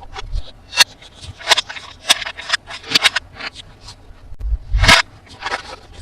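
Toy packaging and plastic toy parts being handled during an unboxing: irregular crinkles and scrapes in quick succession, with a couple of low knocks about five seconds in.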